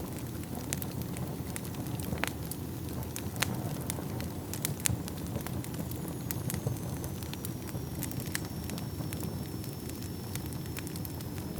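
Wood fire burning in a fireplace: a steady low rumble of flames with sharp crackles and pops every second or so. A faint high whistling tone joins about halfway through.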